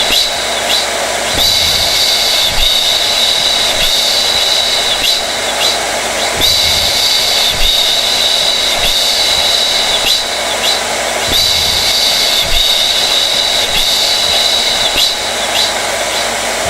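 Hair dryer (blow dryer) running continuously: a steady rush of air under a high whine that wavers briefly every second or two.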